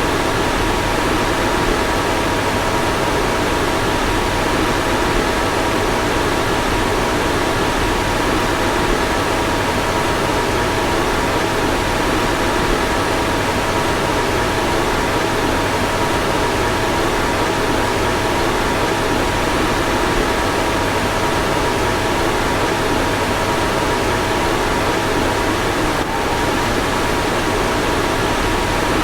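A car's fan running steadily: an even rush of air with a faint two-tone hum in it, which dips and shifts slightly for a moment near the end.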